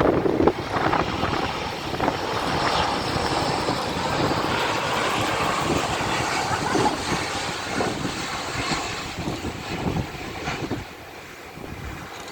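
Airliner passing overhead on its landing approach: a steady engine rush that drops away about eleven seconds in.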